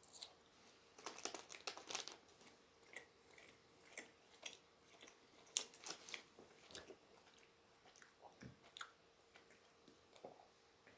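A person biting and chewing a spicy snack salami stick: faint, irregular mouth clicks and chews.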